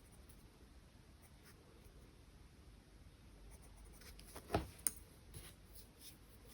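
Charcoal pencil working on drawing paper: faint scratching, then a quick cluster of short strokes about four seconds in, the loudest with a light tap against the paper and a sharp click just after.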